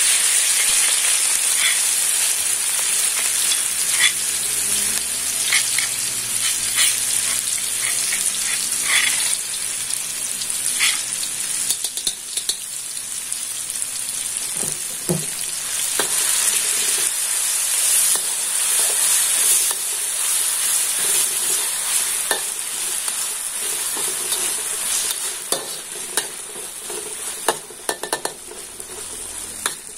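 Chopped shallots, garlic and red chilies sizzling in hot oil in a wok, starting loudly as they hit the oil, with scattered pops and crackles throughout. The sizzle eases somewhat over the last few seconds, while a metal ladle scrapes and taps the wok as the mixture is stirred.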